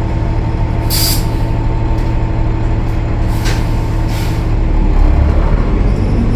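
Cummins ISL9 diesel engine of a Gillig Low Floor transit bus running with a steady low rumble and a thin steady whine. Short hisses of air about a second in and twice more around three and a half to four seconds. The engine grows louder near the end.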